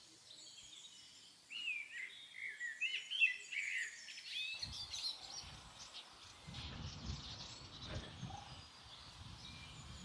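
Birds chirping: a quick run of short calls for about three seconds, then fainter chirps over an uneven low rumbling noise from about halfway in.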